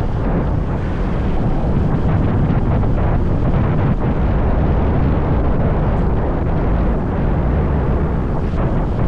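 Steady wind rush and rumble buffeting the microphone of a moving motorbike, with the bike's engine running underneath.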